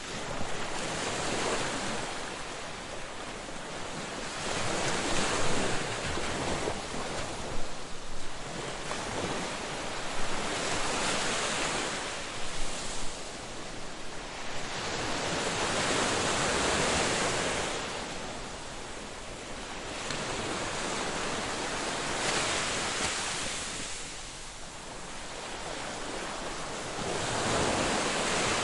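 Ocean waves breaking on a beach and washing back, swelling and fading every few seconds, with a few sharper splashes in the first half.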